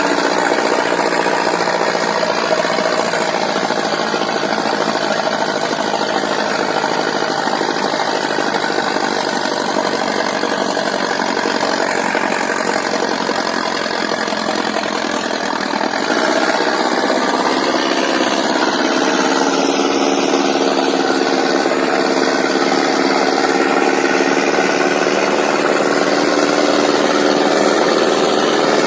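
Diesel engine of an Ace 6565 tractor running steadily under load while it pulls three harrows. It gets louder about halfway through.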